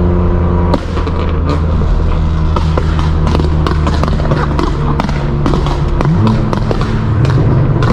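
Straight-piped exhaust of a BMW M4 F82's twin-turbo inline-six: the engine holds a steady note, then lifts off under a second in and the exhaust pops and crackles rapidly on the overrun, many sharp bangs in a row, before the note rises again near the end as it accelerates.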